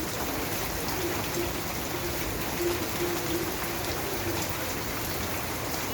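Steady rain falling: an even hiss with scattered drops ticking on surfaces.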